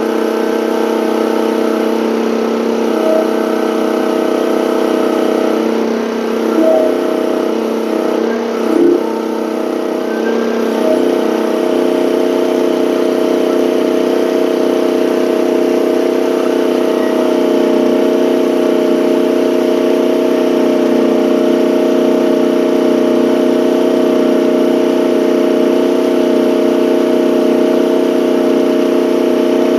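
Small gasoline engine of a one-ton mini excavator running steadily at working throttle, with a steady hydraulic whine, driving a hydraulic auger into the ground. A few short knocks come in the first ten seconds, and the sound settles and grows slightly louder after that.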